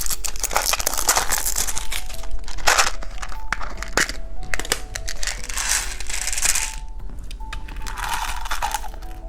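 Crinkling and crunching from handling a piece of candy and its plastic packaging: irregular, dense crackles with louder bursts near the start, around the middle and near the end. Soft background music with a simple melody plays underneath.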